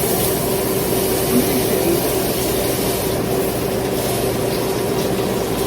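A kitchen appliance's fan running: a steady hum with one constant tone over an even hiss.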